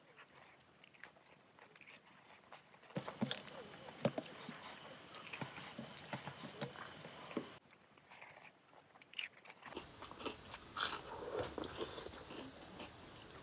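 Close-miked mukbang eating sounds: a person chewing and biting mouthfuls of rice and fish curry, with fingers squishing rice into the wet curry on the plate. Dense small clicks and crackles, with a short lull about two-thirds of the way through.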